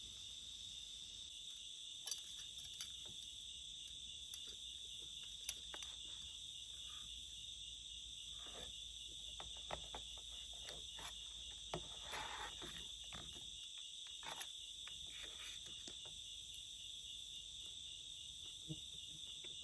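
Crickets chirping in a steady, high-pitched chorus, with scattered faint clicks and knocks.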